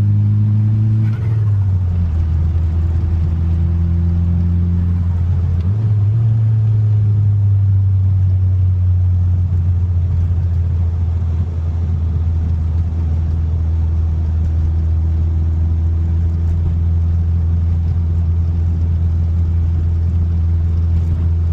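Turbocharged 4G63 four-cylinder of a 1995 Mitsubishi Eclipse GSX droning steadily while driving. Its pitch drops about a second in and steps back up around six seconds in, then holds.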